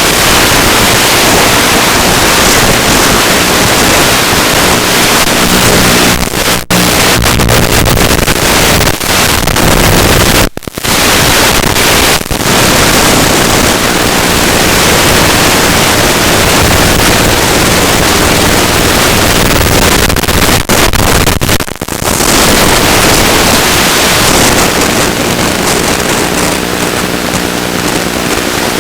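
Loud steady rushing hiss of wind over the ZOHD Drift FPV plane, with the low hum of its electric motor and propeller heard in the first eight seconds and again near the end. The sound cuts out briefly several times.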